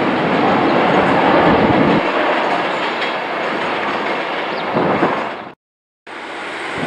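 Train running along the track, a loud steady rumble and clatter that cuts off suddenly about five and a half seconds in, then picks up again near the end.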